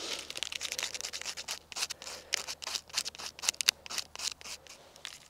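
Birch bark being scraped into fine shavings in quick repeated strokes, making tinder to catch sparks from a fire steel.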